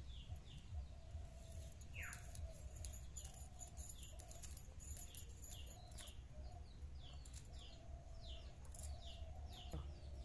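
Small birds chirping: short, high downward chirps repeating about twice a second, with a wavering steady call lower down and one longer falling call about two seconds in. Under them runs a steady low rumble, with a few faint clicks.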